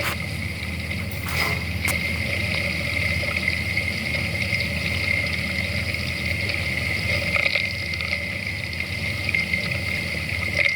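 Household electric water pump running steadily, with water flowing through the pipework. There are a few sharp knocks in the first two seconds.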